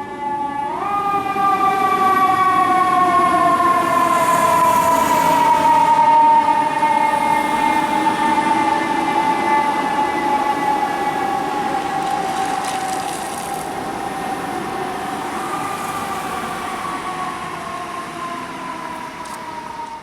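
Fire truck siren sounding while the truck responds: its pitch rises sharply about a second in, then slowly falls, with a brief rise again about three-quarters of the way through. It is loudest about six seconds in and then gradually fades, over the noise of the truck on the road.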